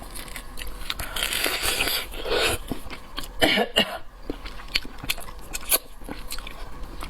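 Close-miked eating sounds: wet chewing and biting with many small clicks and smacks, and two louder noisy stretches about a second in and about three and a half seconds in.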